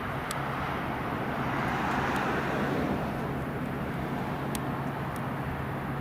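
A train rolling by: a steady low diesel engine hum under a rushing rolling noise that swells about two seconds in and then eases, with a few faint high ticks.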